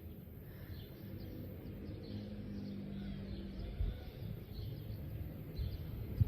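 Outdoor ambience: scattered bird chirps over a steady low rumble, with a short thump near the end.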